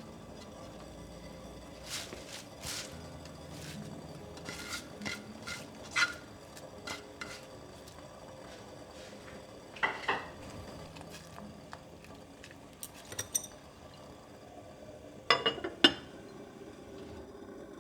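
Dishes and cutlery being handled: scattered light clinks and knocks, a louder ringing clink about ten seconds in, and a quick cluster of loud ringing clinks near the end.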